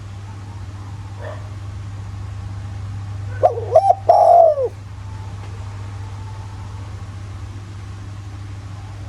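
Spotted dove cooing: a faint note about a second in, then a loud phrase of three coos near the middle, the last one the longest. A steady low hum runs underneath.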